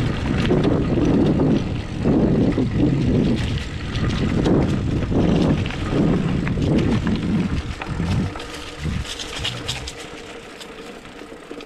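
Mountain bike rolling fast down a dirt singletrack: tyres rumbling over the ground and wind on the microphone, in uneven surges. It grows quieter over the last few seconds as the bike slows.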